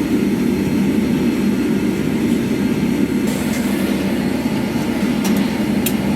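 A forge running with a steady, low rushing noise, with two faint metallic clicks near the end.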